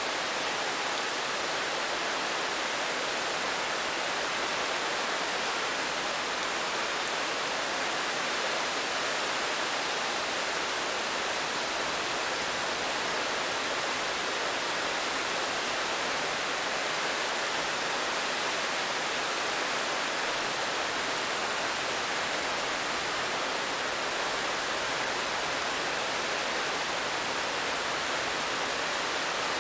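Steady rain: a dense, even hiss with no distinct drops standing out and no change in intensity.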